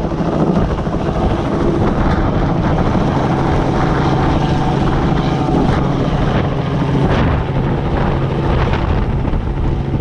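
Helicopter running close by, a loud, steady rotor and engine noise.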